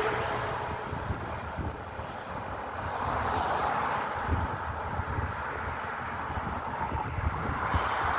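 Wind buffeting the microphone, with fluttering low rumbles over a steady rush of road and traffic noise.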